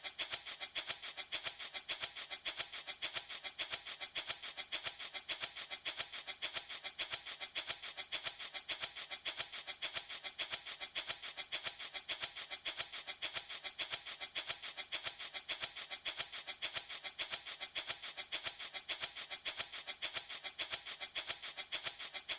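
Handmade baby rattle shaken in a steady, unbroken rhythm, several shakes a second, giving a high-pitched rattling.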